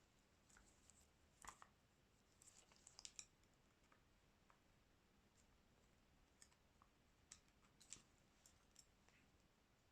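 Faint, scattered clicks and taps of small repair tools and plastic phone parts being handled, a few irregular ticks over a quiet room hiss.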